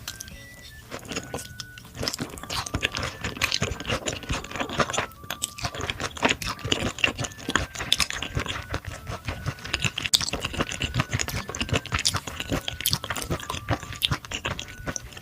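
Close-miked chewing of thin-sliced raw beef brisket: a continuous stream of wet mouth clicks and smacks. It thickens about two seconds in.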